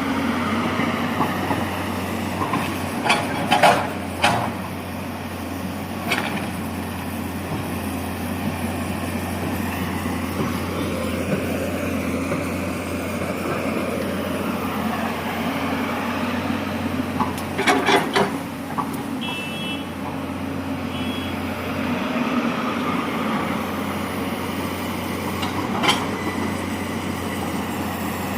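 A heavy construction vehicle's diesel engine running steadily, with a few sharp metallic knocks and a brief beeping about two-thirds of the way through.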